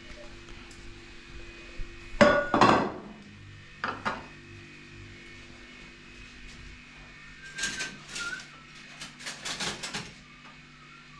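Metal clanking and knocking as hard objects are handled and struck: a few separate knocks, the loudest about two seconds in, then a quicker run of clanks near the end, over a steady low hum.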